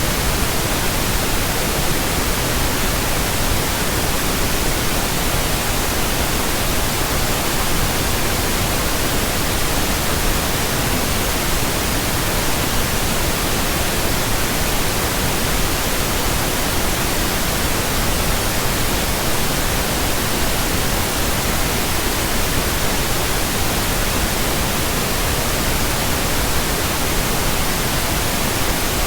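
Steady, unchanging pink noise: an even electronic hiss spread across the whole range of pitch.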